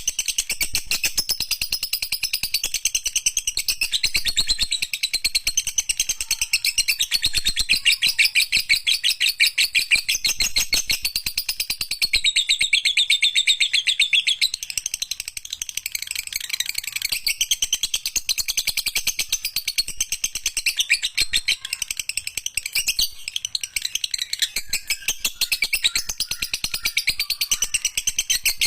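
Lovebird chattering in one long, unbroken run of very rapid high chirps: the long 'ngekek' song that lovebird keepers train their birds toward.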